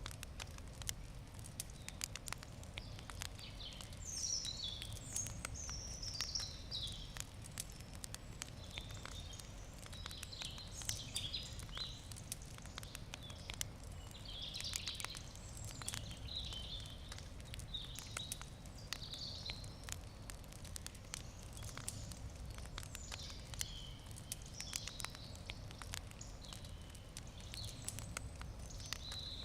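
Wood campfire crackling, with frequent small sharp pops and snaps. Birds sing repeated short chirping phrases throughout, over a low steady outdoor rumble.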